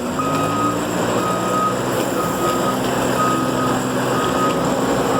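Vehicle reversing alarm beeping about once a second, each beep about half a second long, over the steady hum of an engine that rises a little in pitch at the start.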